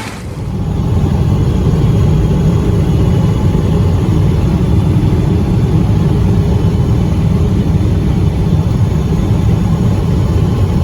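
Hot rod coupe's engine running while driving, a loud, steady low drone that comes up within the first second.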